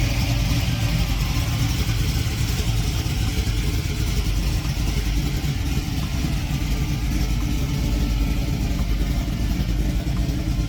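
Ford 351 Windsor V8, stroked to 357 cubic inches with Holley Sniper fuel injection, running steadily with a low rumble and a hiss over it.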